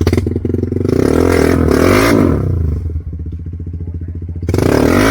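Motorcycle engine revved hard for about two seconds, dropping back to lower revs, then revved up again near the end.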